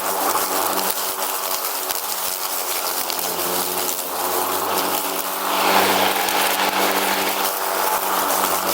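Lawn mower engine running steadily with a buzzing drone and a rushing noise over it, which swells briefly about six seconds in.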